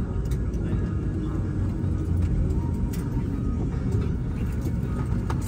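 Steady low rumble of a vehicle heard from inside, with a few faint clicks over it.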